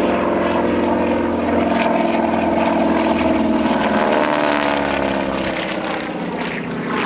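Propeller aircraft flying a display pass: a steady, loud engine drone whose pitch shifts during the pass.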